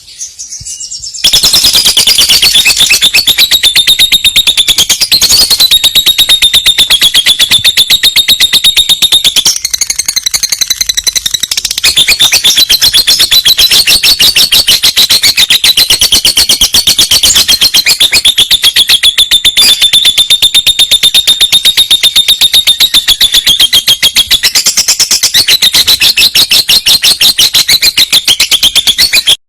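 Lovebird singing a long rolling trill ("rool panjang"): a loud, rapid, high-pitched chatter of very fast repeated notes, kept up almost without a break, that begins about a second in and eases briefly around the middle.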